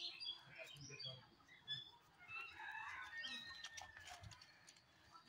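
Faint bird chirping, short high calls scattered throughout, with a thin held note about three seconds in and a few scattered faint clicks.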